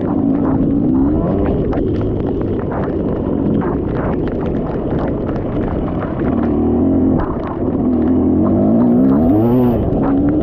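Dirt bike engine running under a rider, its pitch rising and falling with the throttle, with many short knocks and clatter throughout.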